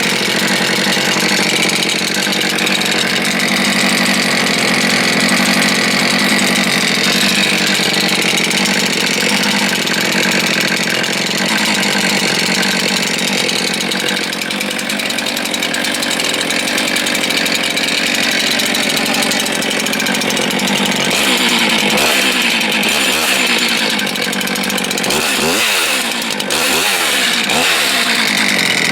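STIHL MS 441 C-M 71 cc two-stroke chainsaw running steadily, then revved several times in quick succession near the end.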